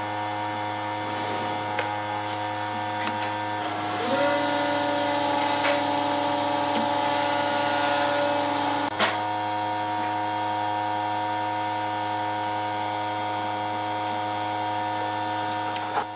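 Woodturning lathe running with a steady motor hum. From about four seconds in to about nine seconds in, a tool cuts into the spinning wood, adding a louder hiss.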